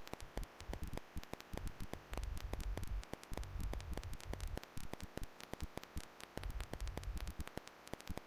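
Dense, irregular crackling clicks, many a second, over a low rumble that comes and goes.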